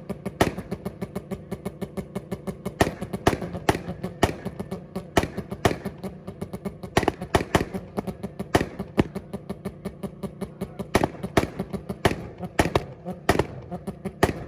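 Turbocharged car engine held on a two-step rev limiter, its exhaust firing a rapid string of loud bangs and pops, several a second, over a steady engine note.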